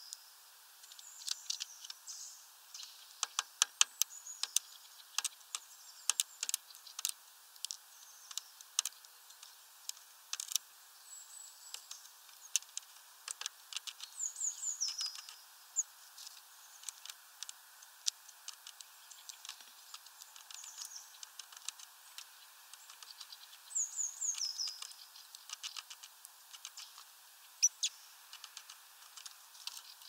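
Small birds calling: a short, high, descending phrase of a few notes comes twice, with many sharp high ticks and clicks scattered between.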